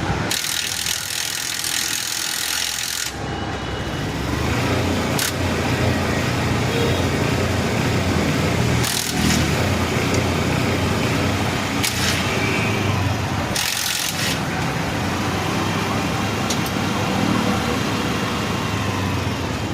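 A motor vehicle engine running steadily with a low rumble, broken by a few short bursts of noise or knocks.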